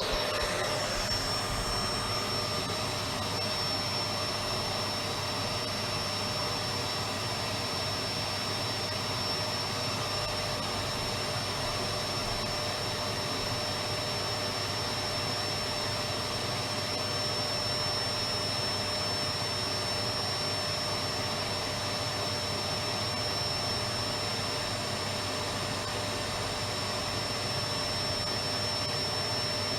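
Electric vacuum cleaner running steadily: a constant rush of air with a steady high motor whine, cutting in suddenly at the start.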